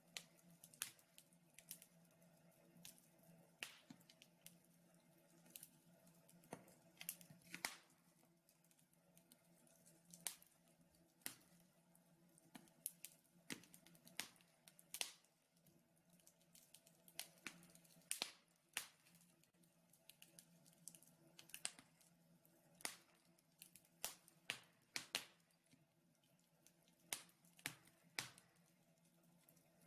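Wood fire in a fireplace crackling: irregular sharp pops and snaps, at times several a second, over a faint steady hum.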